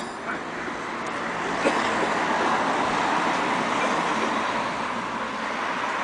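Steady engine and road noise from inside a moving tour coach, growing a little louder over the first couple of seconds, with a few faint clicks.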